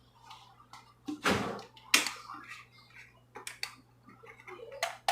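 Kitchen handling noises: a heavy thump about a second in, a sharp click soon after, then a few lighter clicks and knocks.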